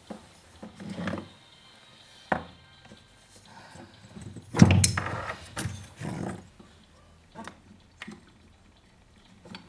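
Clicks and knocks of chainsaw parts being handled and fitted during reassembly, with a louder thunk about four and a half seconds in.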